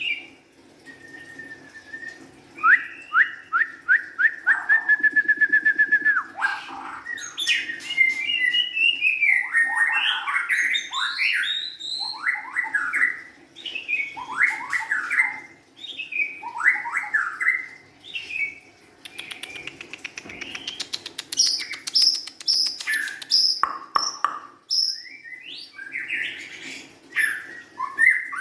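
White-rumped shama singing a varied song of whistled phrases, sweeping notes and a fast trill.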